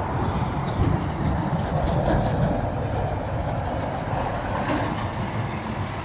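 Campfire burning: a steady low rumble with scattered small crackles and pops.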